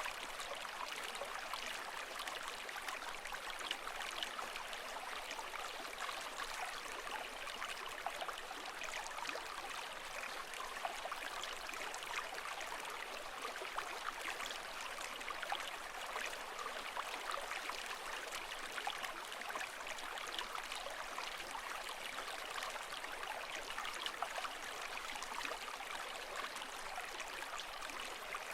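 Continuous water sound: steady flowing and trickling water with many small splashes, even in level, with no surges of waves.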